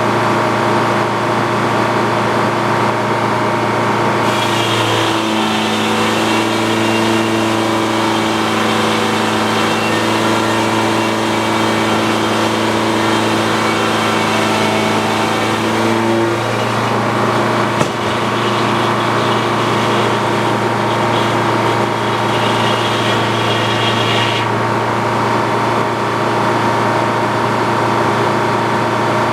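Antique Frick sawmill running steadily on its power unit's engine. From about five seconds to about sixteen seconds in, a steady whine rides on top, and a sharp click comes about eighteen seconds in.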